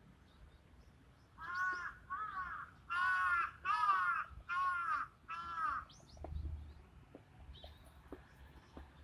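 A bird calling six times in quick succession, each call about half a second long, loudest in the middle of the series.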